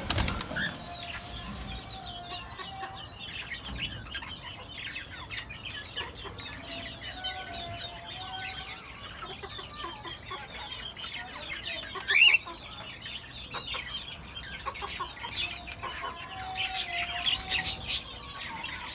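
Cockatiels chirping and chattering in a cage: many short calls overlapping, with one louder rising call about twelve seconds in. A flutter of wings fades out at the start.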